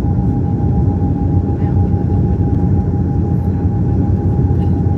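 Cabin noise of an Embraer 195 jet airliner in flight: a loud, steady low rumble from its turbofan engines and airflow, with one constant high tone held over it.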